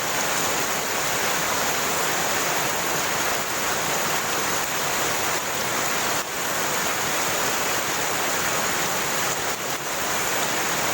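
Waterfall's falling water making a steady, unbroken rushing noise.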